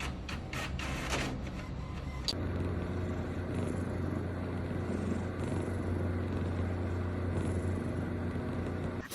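A rhythmic mechanical clicking, about three or four a second, that stops abruptly about two seconds in. A steady low hum and rumble follows, like a running vehicle heard from inside.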